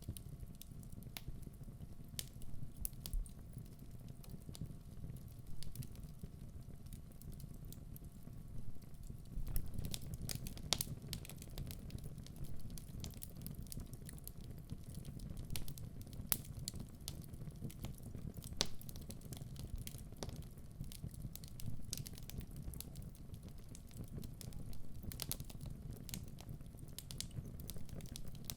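Wood fire in a fireplace burning with a steady low rumble and frequent sharp crackles and pops from the burning logs, coming more thickly about ten seconds in and again near the end.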